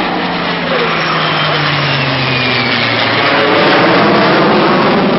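Heritage Flight formation of a P-51 Mustang, an F-15E Strike Eagle and an A-10 Thunderbolt II passing overhead: a loud roar of aircraft engines whose pitch falls as they go by, growing louder again from about halfway through.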